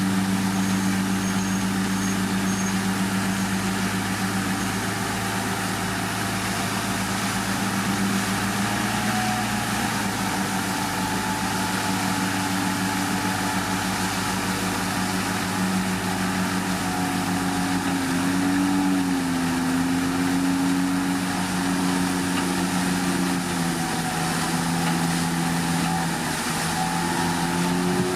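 Heavy diesel earthmoving machine engine running steadily, its pitch rising and falling a little in the second half as the load changes.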